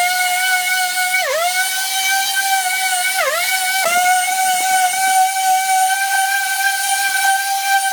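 Small high-speed power tool motor whining steadily, its pitch sagging briefly twice as it is pressed into the work and then recovering.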